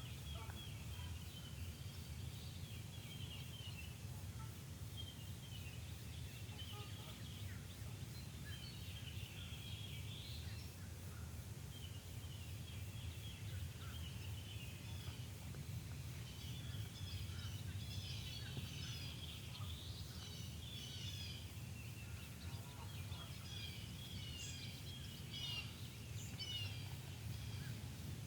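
Birds chirping and trilling throughout, many short overlapping calls, over a steady low background rumble.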